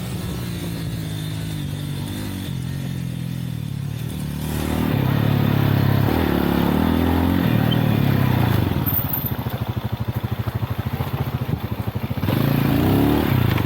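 Dual-sport motorcycle engine on a trail ride: running steadily, then the throttle opens about four seconds in and the revs rise and fall. Later it drops to a slow, pulsing chug at low revs before a brief rev near the end.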